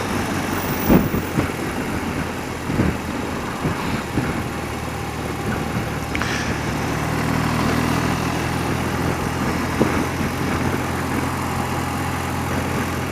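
A 30-year-old BMW flat-twin motorcycle engine running under way, a steady note that comes through more clearly from about halfway, with a few brief knocks.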